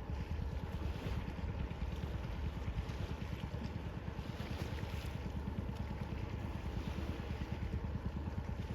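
Sea waves washing steadily, with wind buffeting the microphone as a fluttering low rumble.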